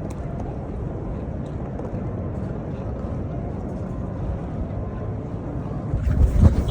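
Steady low rumble of city street traffic, with a louder, rougher burst of low rumble about six seconds in.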